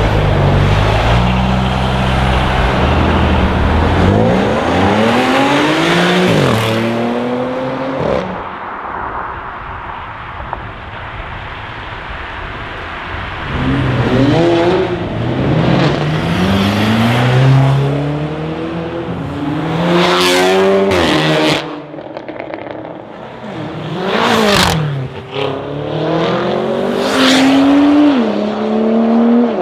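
Performance cars accelerating hard away one after another, an Audi S5 Cabriolet and then a BMW X6 M among them. There are three runs of engine note climbing in pitch, each broken by several upshifts, with sharp exhaust cracks in the second half.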